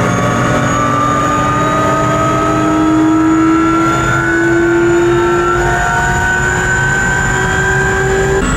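Helicopter turbine and rotor noise heard from the cabin, a loud, steady whine rising slowly in pitch as the helicopter powers up and lifts off, shifting abruptly near the end.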